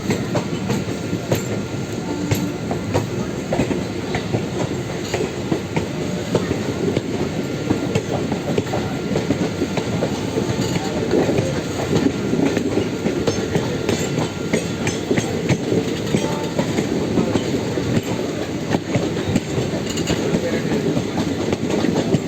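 A moving train running on the track: a steady rumble with the clickety-clack of wheels over rail joints and short clattering clicks throughout.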